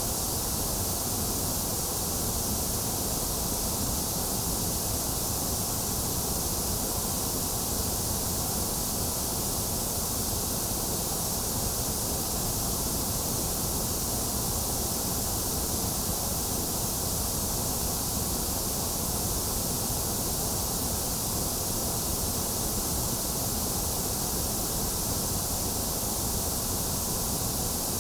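Steady white noise with no changes or events: a bright hiss over a low rumble.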